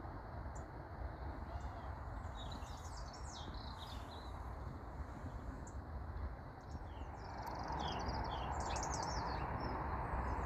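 Small birds chirping and twittering in short scattered bursts over a steady low background rumble; a louder even hiss comes in about seven seconds in.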